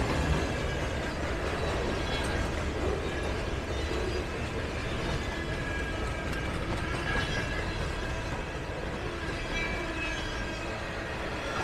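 Norfolk Southern train 120 moving on the track: a steady rumble and rattle with faint thin high tones above it.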